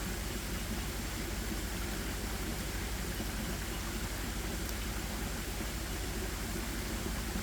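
Steady outdoor forest ambience: an even rushing hiss with no birdsong, and a faint tick about halfway through.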